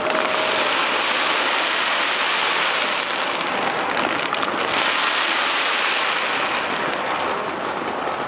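Dense, continuous crackling of a fireworks barrage launched from the Taipei 101 tower, a steady rain-like crackle with rumbling booms underneath.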